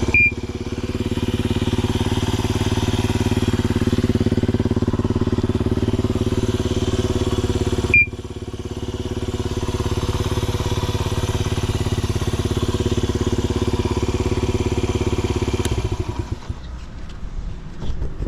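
Honda Ape 50's single-cylinder four-stroke engine idling steadily through a Racing Service ZERO aftermarket muffler, with a sharp click about eight seconds in. Near the end the steady note breaks up and drops away as the engine stops.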